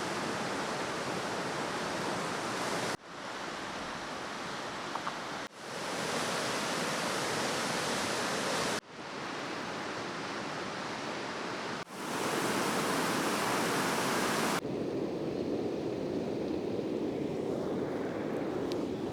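Flash-flood water rushing down a wide riverbed: a steady rushing hiss, broken by abrupt cuts into several short stretches, duller and lower-pitched from about 15 seconds in.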